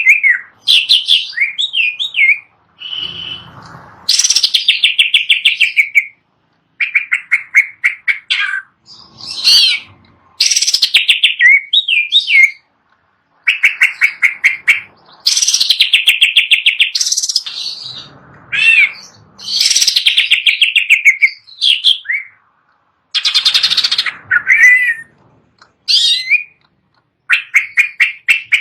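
Green leafbird (cucak ijo) singing: a string of loud, fast trills and short whistled notes, phrases of a second or two with brief pauses between them.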